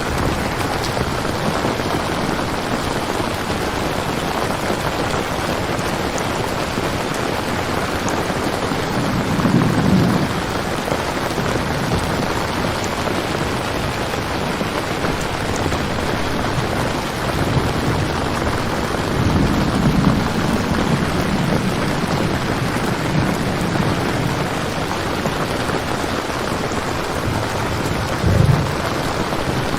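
Steady heavy rain, with low rolls of thunder about a third of the way in, again near the middle and once more just before the end.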